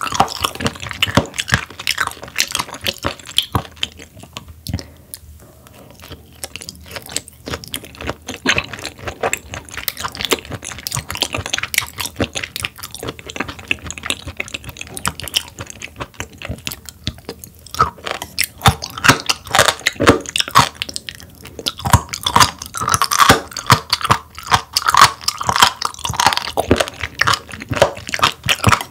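Close-miked chewing of raw sturgeon, a dense run of wet mouth clicks and crunches, growing louder and busier in the last ten seconds or so.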